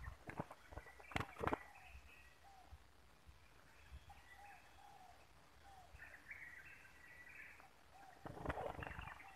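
Faint bird calls: short scattered chirps and a few soft curved notes. Two sharp clicks come about a second in, and a brief rustle comes near the end.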